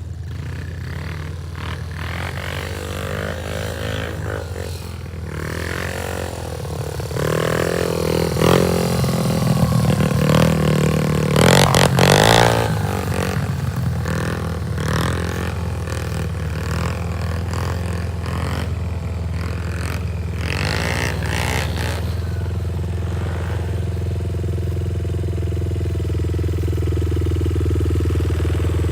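90cc pit bike engine running, revving up and down through the middle stretch and loudest at about twelve seconds in. It then settles into a steady, lower run near idle.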